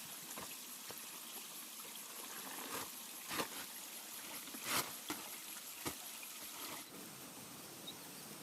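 Water trickling steadily, with several sharp clicks or taps scattered through it.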